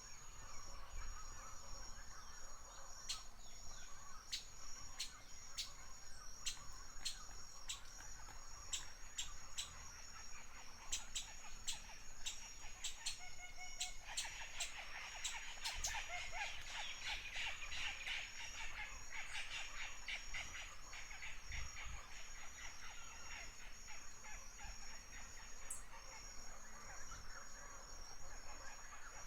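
Forest ambience of birds calling, short sharp chirps scattered over a steady high-pitched tone, with a dense stretch of rapid chattering calls from about fourteen to twenty seconds in.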